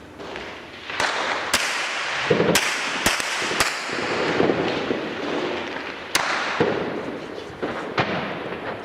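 Weapons fire in a city under bombardment: about seven sharp reports, each echoing, five of them in quick succession in the first few seconds and two more spaced out later, over a steady background rumble of noise.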